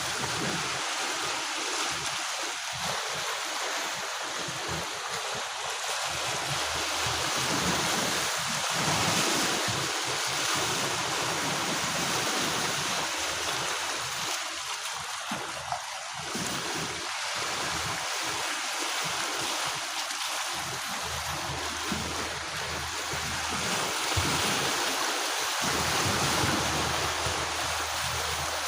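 Sea waves washing ashore: a steady rushing of surf that swells and eases gently, with some wind on the microphone.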